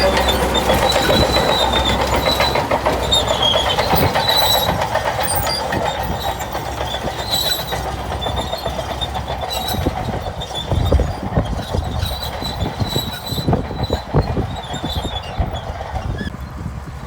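Shantui crawler bulldozer on the move, its steel tracks squealing and clanking over the low rumble of the engine, fading toward the end.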